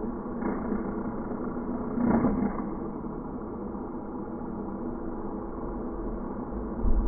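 Lawnmower running with a steady hum, with a louder surge about two seconds in.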